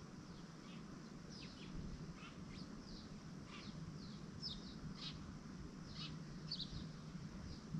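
Small songbirds calling: a dozen or so short, thin chirps, each falling quickly in pitch, scattered irregularly, with two a little louder about halfway and near the end. A steady low hum lies underneath.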